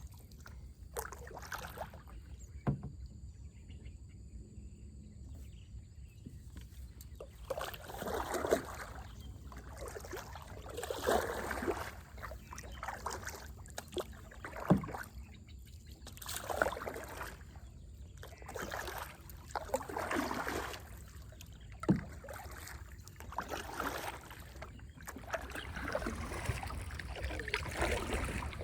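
Paddle strokes in the water of a small boat, an irregular swish every one to three seconds, with a few sharp knocks of the paddle against the hull.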